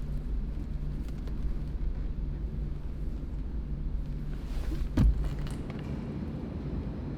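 A steady low rumble with a single loud thump about five seconds in.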